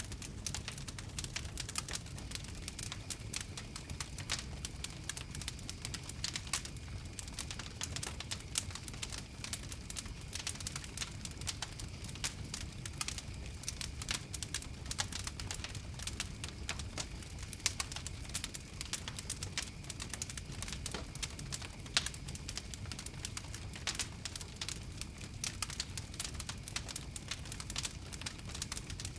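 Wood fire crackling: dense, irregular pops and snaps, with a few louder ones, over a steady low rumble of the flames.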